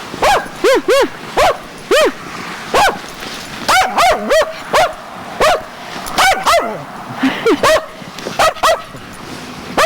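Dog barking over and over in short, loud barks, an irregular string with some in quick pairs and threes: excited play barking during a game of fetch.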